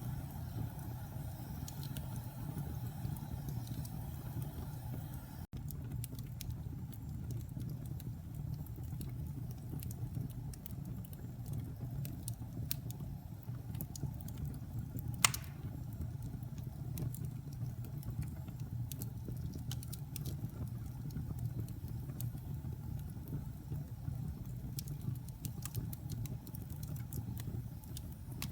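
Wood fire burning in a fireplace: a steady low rumble with scattered small crackles, and one sharp pop about fifteen seconds in.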